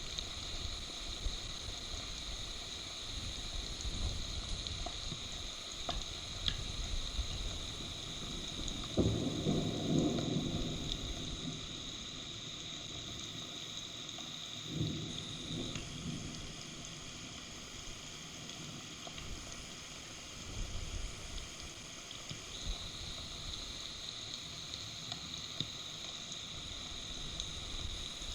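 Steady rain on a nest-camera microphone during a thunderstorm, with a sudden rumble of thunder about nine seconds in and a smaller one around fifteen seconds.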